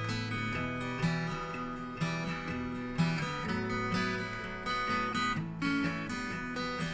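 Acoustic guitar strumming chords with no singing, accented strums and chord changes coming about once a second.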